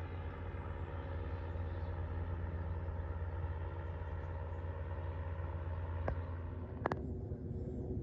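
An engine idling with a steady, even hum. A sharp click comes about six seconds in and a double click just before seven seconds, after which the low hum drops away.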